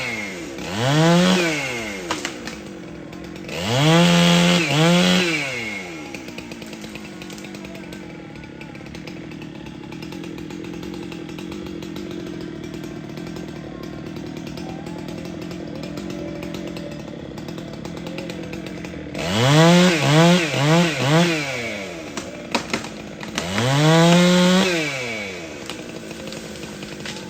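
Chainsaw engine revved in short throttle blips, each rising in pitch and falling back: two at the start and a longer one a few seconds in. It then idles steadily for about thirteen seconds, followed by three quick blips and one more rev near the end.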